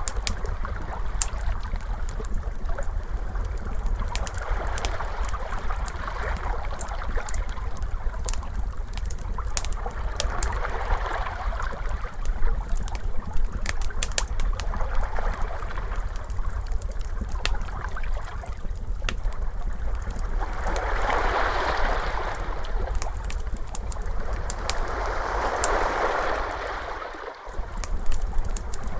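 Wood fire crackling with sharp, scattered pops over ocean waves washing in and out, the surges swelling every few seconds with a steady low rumble underneath. The sound briefly dips out near the end, then returns.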